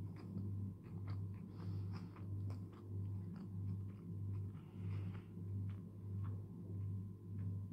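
Close-miked chewing of a deep-fried Brazilian rice cake (bolinho de arroz): a rhythmic low thud about twice a second, with small clicks and crackles from the mouth.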